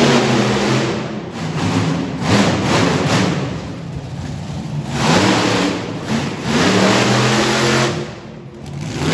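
Monster truck engine revving hard in repeated throttle bursts, the pitch climbing and dropping as it accelerates and backs off, with a short lull near the end.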